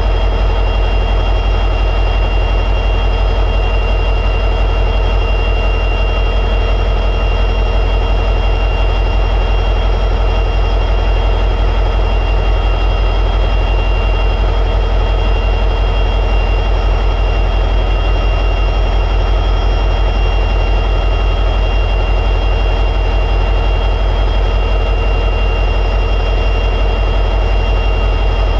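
EMD 710G3B 16-cylinder two-stroke diesel prime mover of an SD60-series locomotive running steadily at high idle, a constant deep drone with a steady high whine over it.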